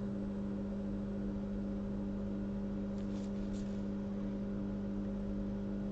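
Steady electrical hum of workbench equipment, with a low drone and a faster pulsing tone above it. Two faint, short hisses come about three seconds in.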